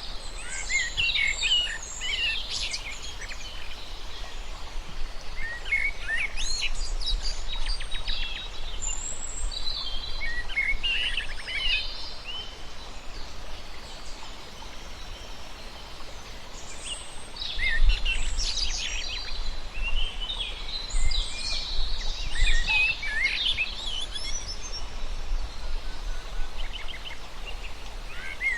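Several small birds chirping and singing in bouts separated by short pauses, over a steady background hiss and a low rumble that strengthens in the second half.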